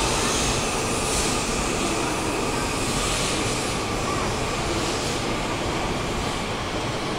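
E5 series Shinkansen train moving along a station platform: a steady rushing rumble from its wheels and running gear, fading slightly.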